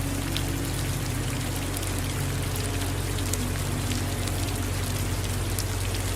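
Steady rain falling, with many individual drops ticking against a surface over a constant low rumble.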